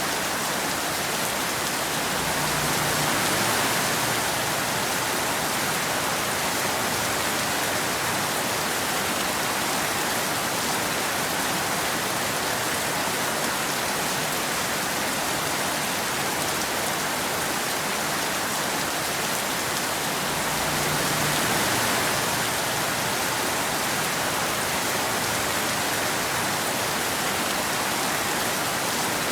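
Steady rain falling on a road and trees, an even hiss with a gentle swell in loudness twice.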